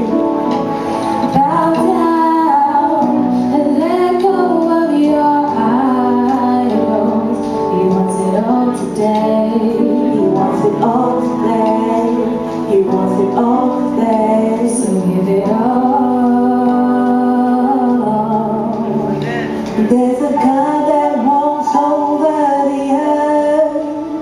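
Live gospel music: a woman singing long, sliding notes over accompaniment, with no clear words.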